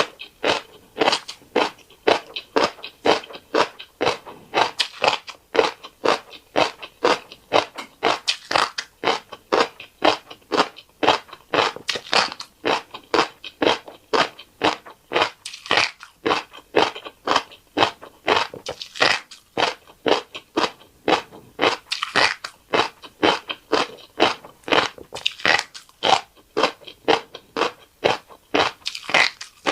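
Close-miked chewing of a fish roe rice bowl: a steady run of crunchy bites at about three a second.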